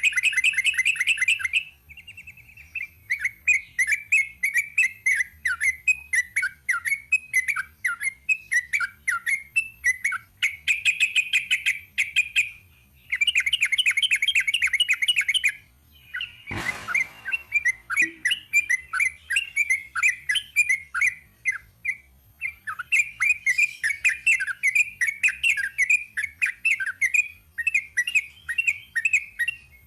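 Yellow-vented bulbul singing long, rapid runs of chattering notes in phrases with short breaks. A single sharp click comes a little past halfway.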